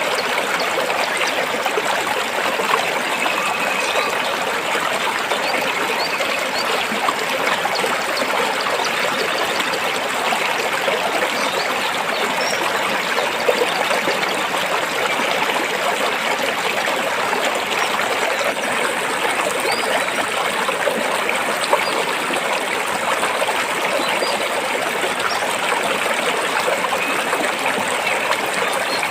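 A stream flowing over and between rocks, a steady rush of water without let-up.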